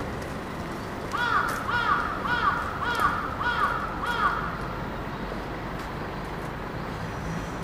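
A bird calling: six short arched calls in a quick, even series, about two a second, over a steady low background hum.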